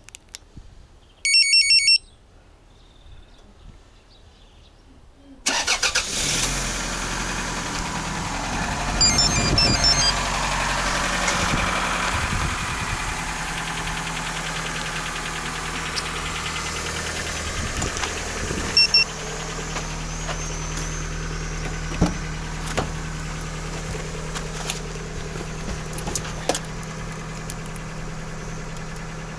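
A loud electronic beep, then about five seconds in a Toyota 3S-FE 2.0-litre inline-four starts and settles into a steady idle. The owner puts part of its clatter down to worn camshaft journals in the cylinder head and some of the racket to a worn alternator bearing.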